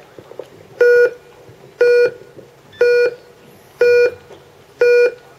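Race-start countdown beeps from an RC race timing system: short electronic beeps, one a second, five in a row.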